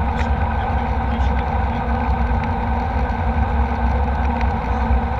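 Steady cabin noise of a jet airliner in flight: a constant drone of engines and airflow with a deep low rumble.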